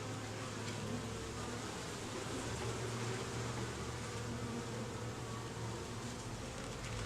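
Honeybees buzzing steadily in an open hive, the combined hum of a colony working the frames.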